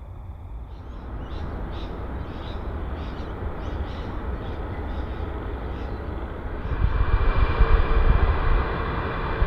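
Large jet airliner approaching to land, its engine noise building from a low rumble and swelling louder about seven seconds in as it passes close, with a steady engine whine over the rumble.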